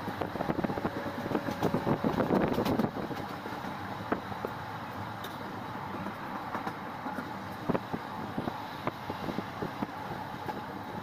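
Passenger train running along the track, a steady rumble with many small clicks and rattles from the wheels and coach, louder for about the first three seconds.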